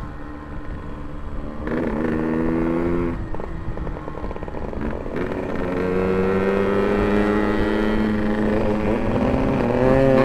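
Yamaha RX-King's two-stroke single-cylinder engine running under throttle while riding. Its pitch rises about two seconds in, falls back near three seconds, then climbs steadily from about five seconds and steps up louder near the end.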